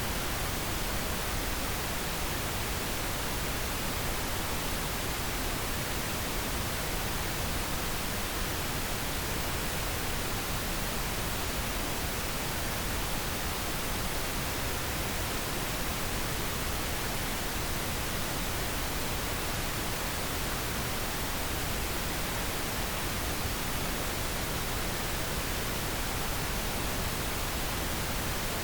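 Steady pink noise: an even, unchanging hiss, softer in the highs than white noise, played as a sleep aid.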